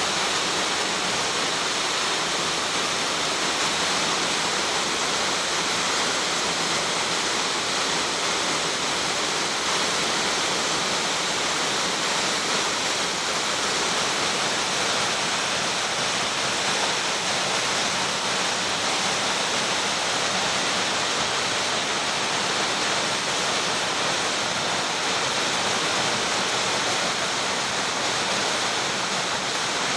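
Waterfall pouring steadily: a dense, even rush of falling water with no let-up.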